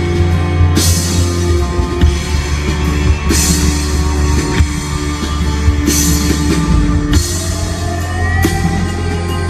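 Live band playing an instrumental passage of the song: a steady beat of drum hits over sustained low bass notes.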